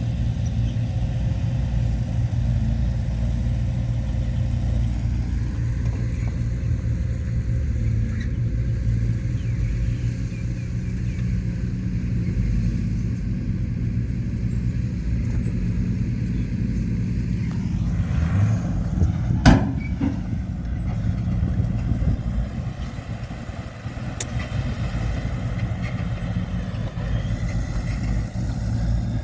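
Heavy diesel engine of earthmoving machinery running steadily, with a noisier stretch and a single sharp bang about two-thirds of the way through.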